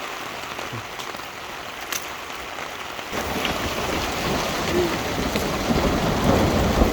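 Heavy rain pouring steadily. About three seconds in, a deep thunderclap starts to rumble and keeps building louder: the thunderstorm arriving close overhead.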